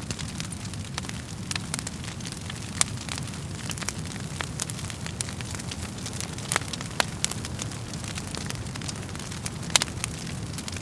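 Wood fire crackling in a fireplace: irregular sharp pops and snaps over a steady low rumble of the flames, with a louder pop about three seconds in and another near the end.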